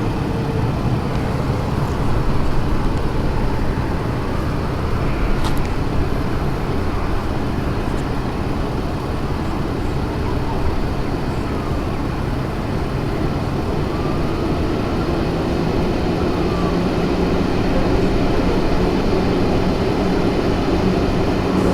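Steady low rumble of a passing vehicle, with no clear starts or stops.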